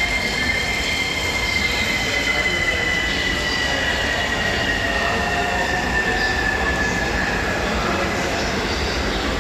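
Electric commuter train moving along a station platform, with a high steady tone that slowly falls in pitch over about eight seconds over a continuous rumble.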